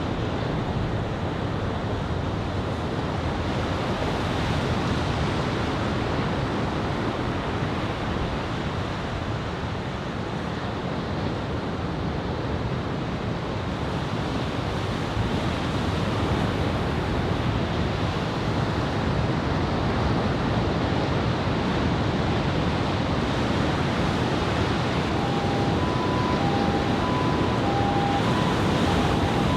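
Ocean surf breaking and washing, a steady rush of noise with wind on the microphone. Near the end, an electronic beep starts alternating between two notes.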